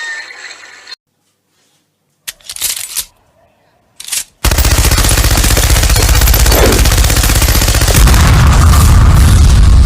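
Two short noisy bursts, then a loud, very fast rattle that starts about four and a half seconds in and keeps going.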